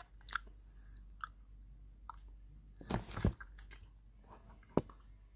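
A person chewing close to a phone microphone, with scattered small clicks and mouth sounds; a louder scuffing noise comes about three seconds in and a sharp click near the end.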